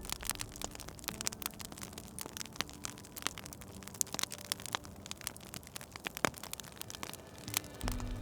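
Wood fire crackling, with many irregular sharp pops and a louder pop about six seconds in.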